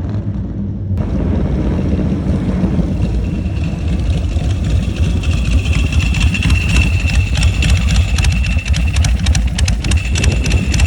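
A custom chopper motorcycle's engine idling, with a rapid, even exhaust pulse and a faint high whine over it from about three seconds in.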